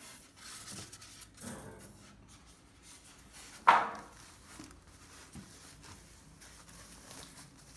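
Microwave accessories and their packaging being handled and unwrapped: soft rustling and rubbing, with one sharp knock about three and a half seconds in.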